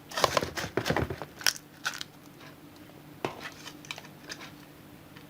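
Gritty crunching and clicking of small stones and potting soil being handled: a dense run of crackles in the first second, then a few separate clicks.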